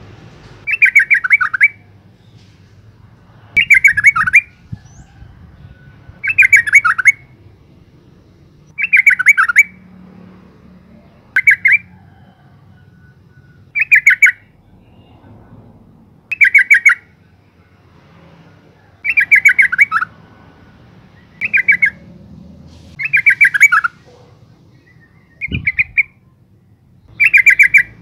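Female yellow-vented bulbul giving a short, rapid chattering call, repeated about every two to three seconds.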